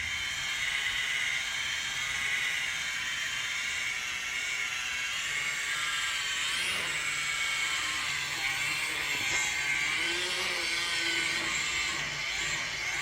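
Electric polisher running steadily with a high whine, buffing freshly cured clear coat, its pitch wavering slightly as it is worked over the panel.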